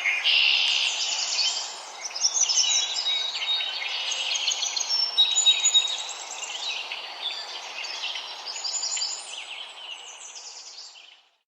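Warblers singing: quick, busy runs of high chirps and trills over a steady hiss of background noise, fading out near the end.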